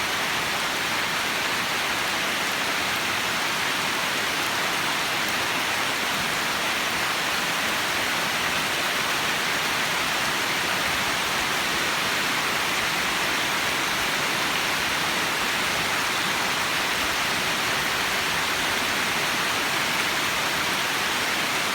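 Heavy monsoon rain falling steadily: a dense, even hiss that doesn't change throughout.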